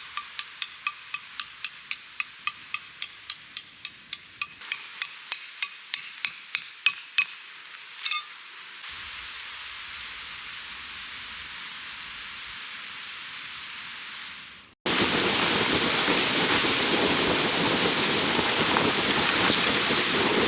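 A metal tent stake being hammered into the ground, about three ringing strikes a second for roughly seven seconds. Then a faint steady hiss, and from about fifteen seconds in a loud steady rushing noise that starts suddenly.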